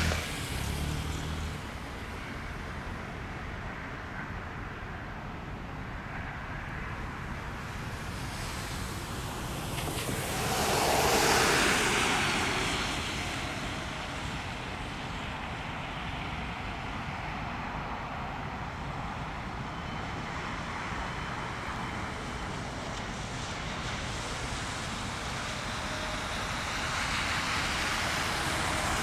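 Jet engine noise from a landing Boeing 777-300ER, its GE90 engines. The sound swells to a peak about eleven seconds in as the plane passes, then fades back to a steady rumble and grows again near the end.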